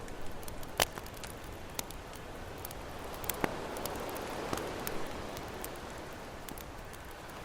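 Campfire crackling with scattered sharp pops, the loudest just under a second in, over the steady wash of ocean waves, which swells a little around the middle.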